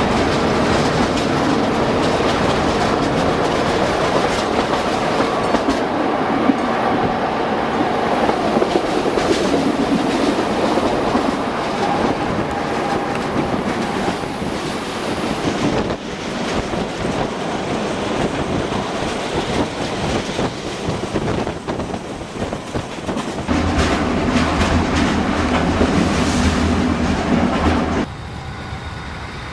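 Narrow-gauge passenger train running, heard from inside the coach: a steady running noise with wheels clacking over rail joints. For the last few seconds the deep drone of the class 2095 diesel locomotive coupled just ahead comes through loudly, then the sound drops abruptly.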